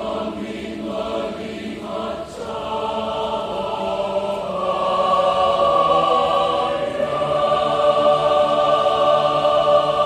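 Choir singing the closing phrase of a hymn, the voices moving through short notes and then holding a long final chord for the last half.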